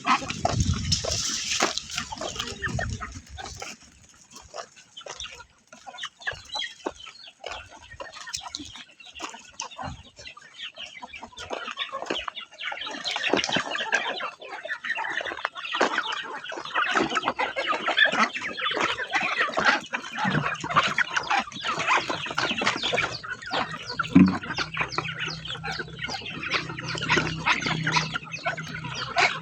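Chickens clucking, many short calls overlapping, growing denser about halfway through, with a low steady hum underneath in the last third.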